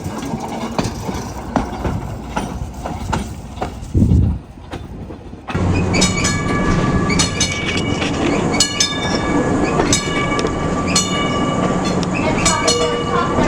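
A train running on rails, its wheels clicking and ringing over the track at irregular intervals. About five seconds in, the sound changes abruptly to louder, sharper clicks with a steady ringing tone.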